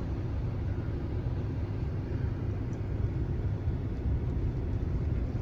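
Steady low road and tyre rumble inside a Tesla electric car's cabin while driving, with no engine sound.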